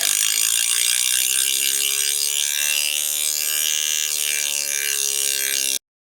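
A hard disk drive damaged by air-pistol pellets running under power, with a harsh whining grind: its bent, dented platter is rubbing on the parts inside. The sound cuts off abruptly near the end.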